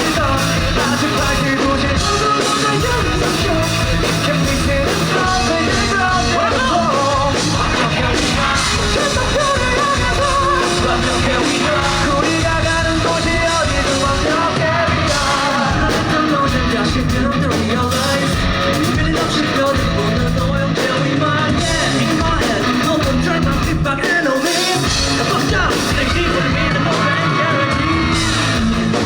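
Live rock band performing loudly, with electric guitars, bass and drums under singing and shouted vocals.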